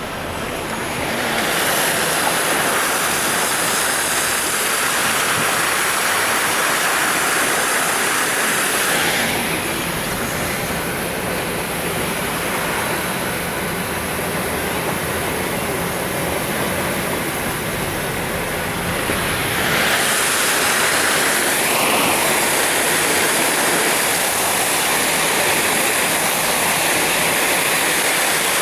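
Rushing floodwater from a swollen river, a steady loud roar of water. The sound changes abruptly about nine seconds in and again about twenty seconds in.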